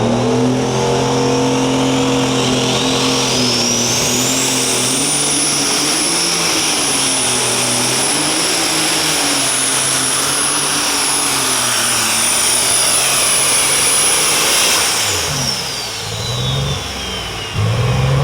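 Turbocharged diesel engine of a super stock pulling tractor running hard under load through a pull. A high turbo whine climbs over the first five seconds, holds steady, then falls away over the last three seconds as the engine comes off power.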